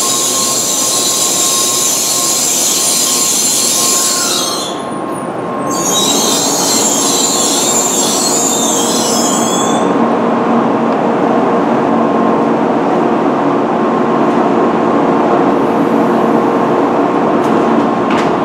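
N700-series Shinkansen train at the platform, its equipment giving off a loud high hiss that dips briefly about five seconds in and stops about ten seconds in. After that a steadier, lower running noise continues, with a faint steady tone.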